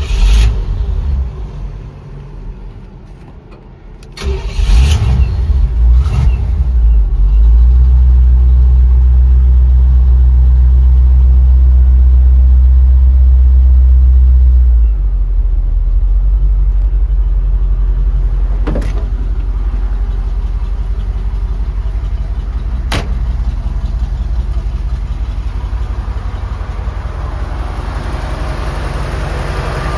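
The Corvette engine in a 1956 Chevy truck starting about four seconds in, after a short loud burst at the very start. It runs at a steady fast idle, then settles to a lower, quieter idle about halfway through. Two sharp clicks come later on.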